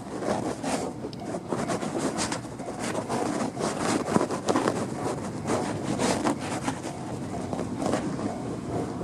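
Toyama Chiho Railway 14760-series electric train passing over a level crossing, its wheels knocking irregularly over the rails. Near the end the knocking gives way to a steadier, lighter rumble.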